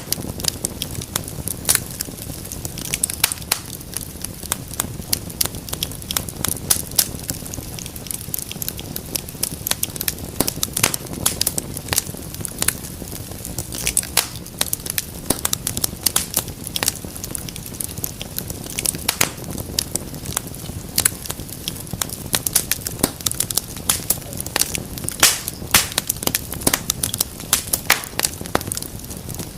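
Wood fire crackling: dense, irregular sharp pops and snaps over a steady low rumble of burning.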